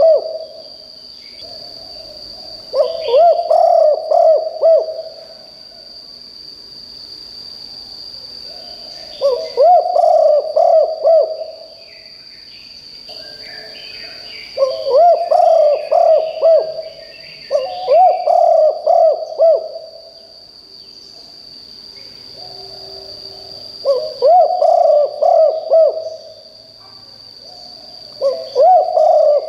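Spotted dove cooing: six phrases of several low coo notes, each about two seconds long, spaced a few seconds apart. A steady high-pitched tone runs underneath, with faint chirps from other birds around the middle.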